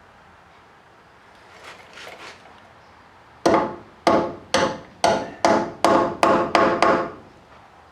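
Hammer blows driving new brass bushings into the enlarged holes of a truck door hinge: about nine sharp, ringing strikes in quick succession, starting about halfway through, after a few faint knocks.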